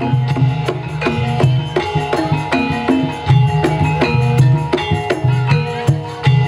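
Gamelan ensemble playing jaranan music: a fast, steady run of kendang drum strokes over ringing pitched metal notes and a sustained low hum.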